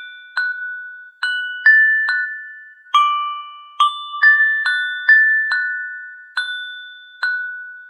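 Slow, gentle melody of bell-like struck notes in the style of a glockenspiel or music box, about a dozen notes, each ringing out and fading before the next. No rain noise is heard.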